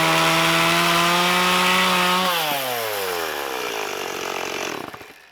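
Chainsaw cutting through a wooden log at full throttle with a steady engine note. About two seconds in the throttle is let off and the revs fall away, and the saw goes quiet near the end.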